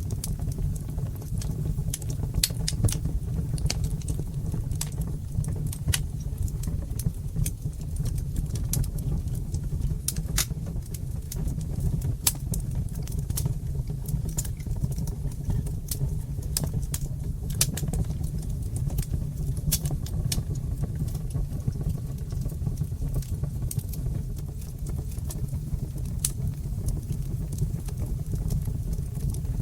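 Fire in a fireplace crackling: irregular sharp pops and snaps, some louder than others, over a steady low rumble of the flames.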